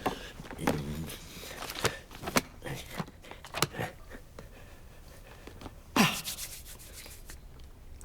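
Cartoon sound effects: scattered clicks, taps and rubbing sounds, with a short voice-like grunt about a second in and a louder burst of noise about six seconds in.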